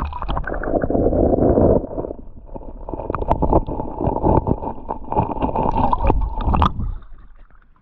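Creek water gurgling and sloshing, heard muffled through a microphone held underwater, with small knocks and bubbles; it starts suddenly and fades out about seven seconds in.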